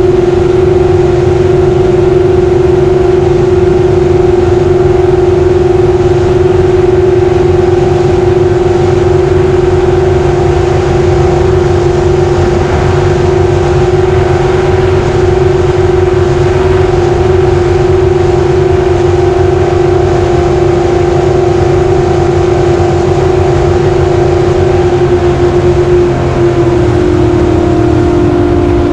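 Racing jet boat engine running flat out at a steady high pitch, with the tone wavering and splitting into two close pitches near the end.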